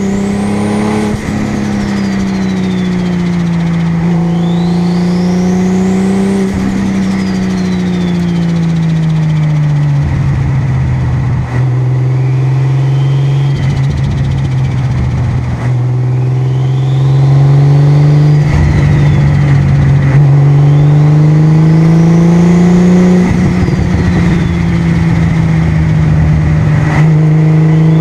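Sports car engine cruising at moderate revs, its note easing down for several seconds around the middle, then climbing slowly toward the end, with a faint high whistle that rises and falls several times over the engine.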